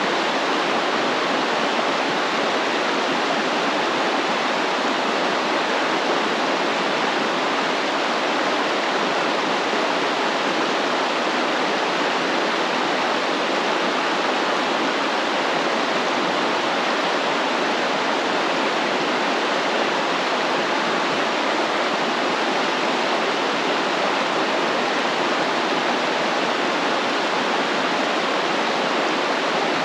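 Stream water flowing, a steady, even rush of running water with no breaks.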